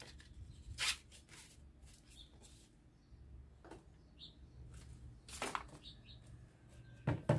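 Sandpaper being handled and glued on by hand: a few short scattered rustles and taps over a faint steady low hum.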